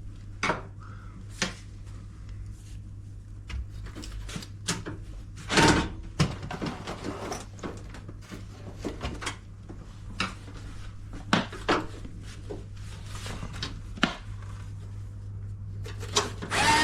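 Irregular knocks, clicks and rubbing of washing-machine casing panels and parts being handled during disassembly, the loudest knock about five and a half seconds in, over a steady low hum.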